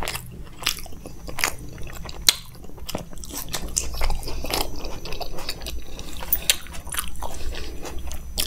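Close-miked chewing of a mouthful of makki ki roti (maize flatbread) with sarson ka saag, with irregular wet mouth clicks and lip smacks.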